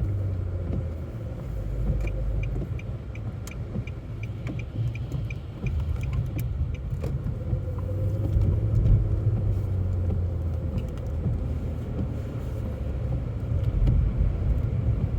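Steady low rumble of a car driving on snowy roads, heard from inside the cabin. For a few seconds, starting about two seconds in, a faint run of quick, even ticks sounds, about three a second.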